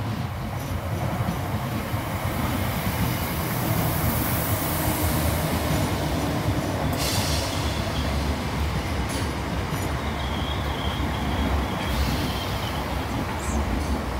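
ScotRail electric multiple unit running along the platform: steady wheel-on-rail rumble that grows louder over the first few seconds as it draws alongside. A faint high wheel squeal joins in the second half.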